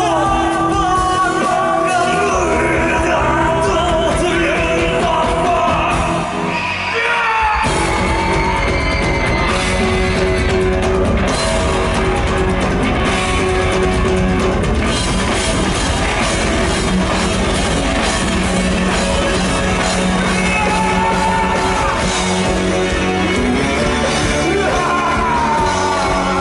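Live rock band playing with a singer's voice over guitars; about seven seconds in, the drums and bass come in heavily and the sound fills out.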